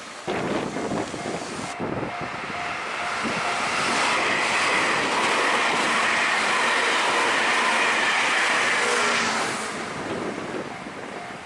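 Meitetsu Panorama Super limited express train passing at speed, with wheels clattering over rail joints. It builds to a loud steady rush for about five seconds, then fades as the train goes by.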